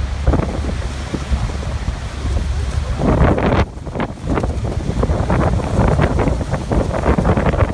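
Waterfall rushing and splashing steadily, with wind buffeting the microphone in a low rumble.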